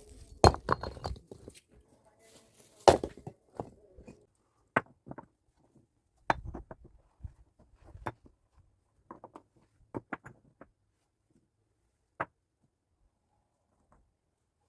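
Irregular sharp knocks and clacks of hard objects being handled, clustered in the first four seconds and then thinning to scattered single knocks, with one louder knock about twelve seconds in.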